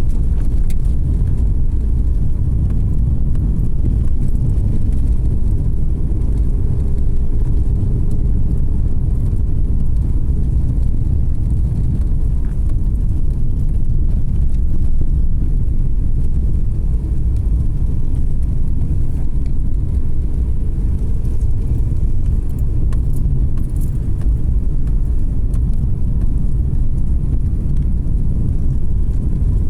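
A car driving along a road: a steady low rumble of tyres and engine, heard from inside the car.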